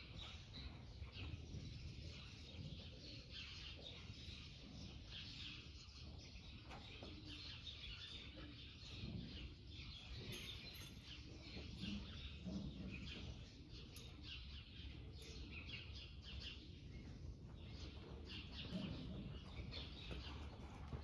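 Faint chirping of small birds, many short chirps throughout, over a steady low hum.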